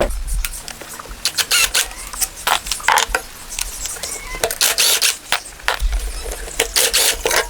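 Irregular metallic clicks, clinks and knocks, some ringing briefly, from hand tools and engine parts being handled during a tractor engine teardown, over a low hum that comes and goes.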